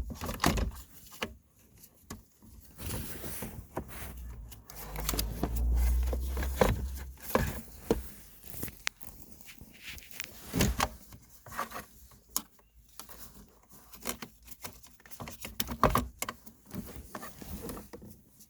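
Scattered clicks, taps and rustles of hand work on a car's shifter assembly and its cables, with a low rumble for a couple of seconds near the middle.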